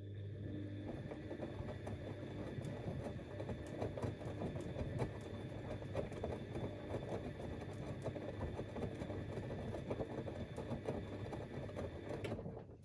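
Siemens Extraklasse XLs 140 A washing machine's drum motor turning the drum in a wash cycle, with a steady motor hum and whine over the tumbling of laundry and water. It runs for about twelve seconds and stops abruptly near the end, a pause in the back-and-forth wash rhythm.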